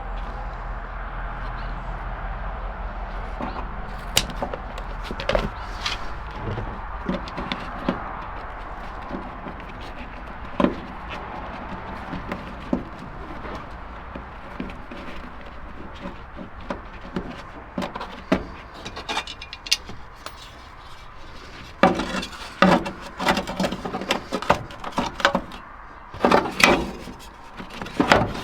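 Hand work on a pickup's door weather stripping: scattered clicks, taps and scraping against the door, with a busier run of louder knocks and scrapes in the last several seconds.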